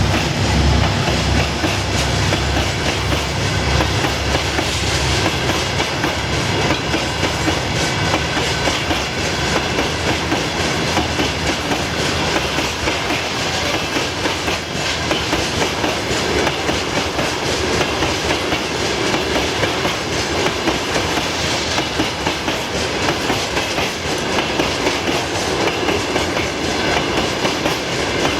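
Wagons of a freight work train rolling past, their wheels clattering steadily over the rail joints. The low drone of a 2TE10M diesel locomotive's engine fades out in the first couple of seconds.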